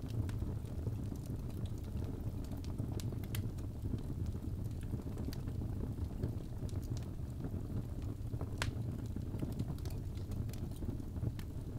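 Birch logs burning in a fireplace: a steady low rumble of flame with irregular sharp crackles and pops, one louder pop near the end.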